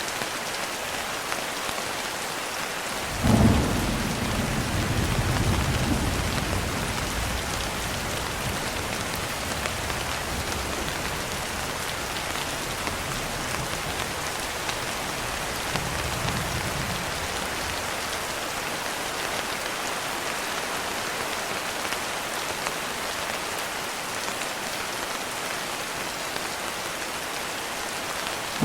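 Steady rain falling as an even hiss, with a sharp clap of thunder about three seconds in that rumbles on for several seconds, a fainter rumble about halfway through, and another thunderclap starting at the very end.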